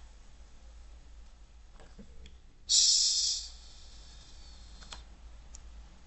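A few faint computer mouse clicks over a low steady hum. About halfway through comes a brief, louder hiss, high in pitch and lasting under a second.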